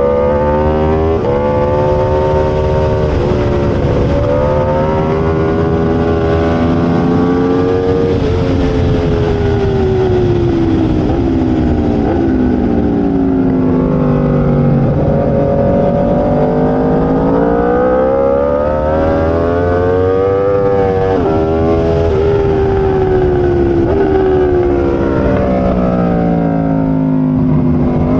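Aprilia RSV4 sport bike's V4 engine at racing speed. The revs climb repeatedly and are cut by several quick upshifts, each a sudden drop in pitch, between long slow falls in engine pitch.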